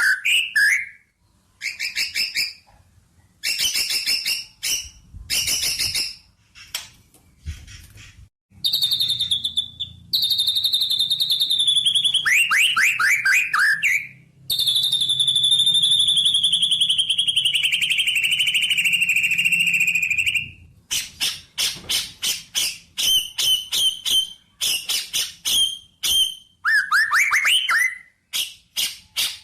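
A songbird singing varied phrases: quick series of high chirps, and long trills of about six seconds that slide slowly down in pitch, broken by short pauses.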